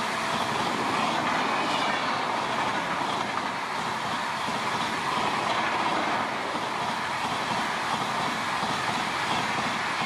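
Express train passing at high speed, a steady loud rush of coaches with the wheels clattering over the rails.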